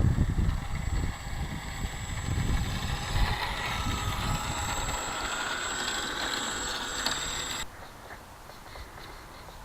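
Brushless electric motor and propeller of an RC model plane (Emax BL2210/30 on 3S with a 10x4.7 prop) running with a wavering whine, with heavy wind buffeting the microphone. The motor sound stops suddenly about three-quarters of the way through, leaving fainter wind noise.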